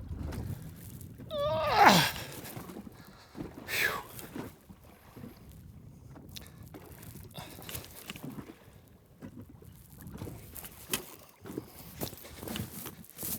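A man's voice lets out a long, wavering, falling groan about two seconds in, then faint scattered clicks and knocks.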